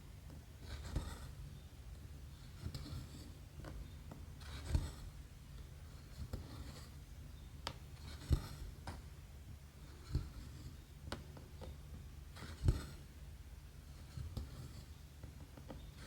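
Needle and thread being drawn through cross-stitch canvas: soft scratchy swishes and small taps every second or two, over a low steady hum.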